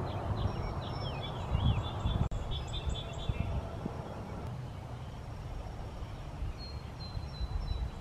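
Songbirds chirping and singing, a quick run of chirps in the first few seconds, then a few thin high whistled notes in the middle and near the end, over a low steady rumble.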